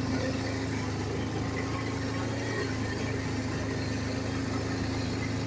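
ATV engine running steadily under way, an even low hum with no change in speed.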